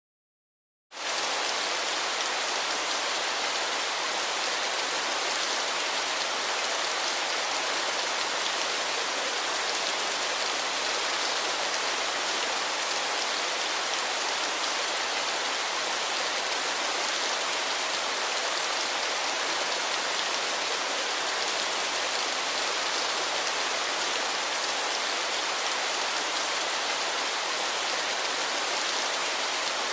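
Waterfall: a steady, even rush of falling water that starts quickly about a second in, after a brief total silence.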